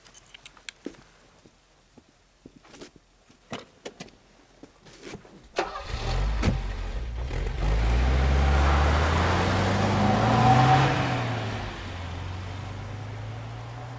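An old Mercedes-Benz limousine's engine pulling the car past, its note rising as it speeds up, loudest shortly before it goes by and then fading. A few faint clicks come before the engine starts to be heard.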